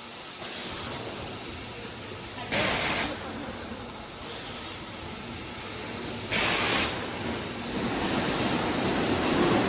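Fully automatic PET bottle blow-moulding machine running, with short bursts of air hiss about half a second each, three of them loud and one weaker, at uneven gaps of two to four seconds, over steady machine noise. The hiss is the high-pressure blowing air being let out after bottles are formed.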